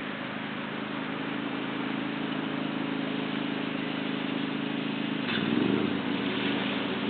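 A motor engine running steadily, with a brief shift in pitch and a rise in level about five seconds in, over a steady background hiss.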